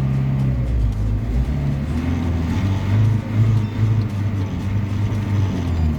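Fuel-injected VAZ 2103 inline-four in an IZh 2717 running just after a hard cold start, its revs drop about a second in and then waver up and down on their own: idle hunting that the owner suspects comes from a sticking throttle cable.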